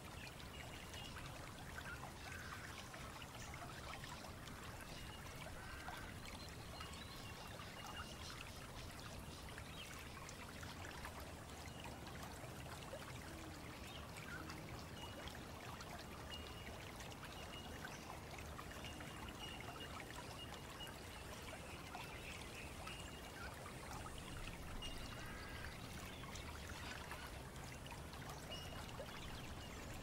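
Australian bush birds calling, with short, high, thin single notes repeating many times over a steady hiss.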